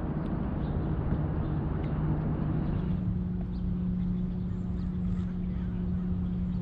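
A distant motorboat's engine drones steadily, its pitch stepping up and holding about three seconds in, over a low rumble of wind and water.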